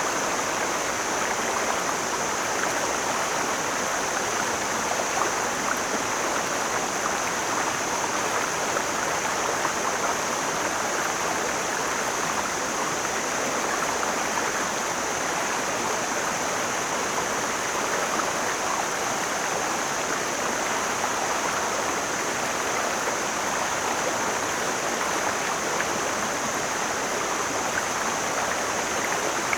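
Mountain stream flowing: a steady, even rushing of water.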